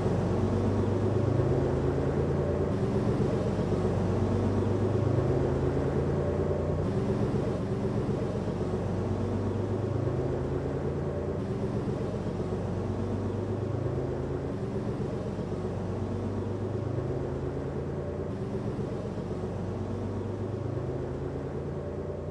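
Bus engine running as the bus drives off, its low pitch stepping up and down every few seconds, as if through gear changes, and slowly fading.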